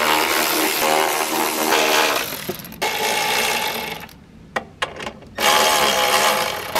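Cordless power driver running in three bursts of steady motor whine, backing out the 8 mm bolts that hold the engine shroud, with a few clicks in the pauses.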